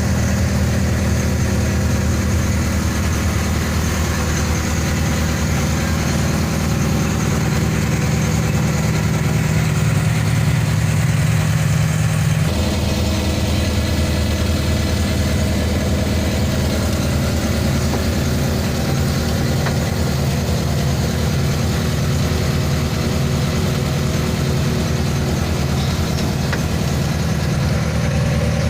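A fishing boat's engine idling steadily, with a low, even hum; its note shifts slightly about twelve seconds in.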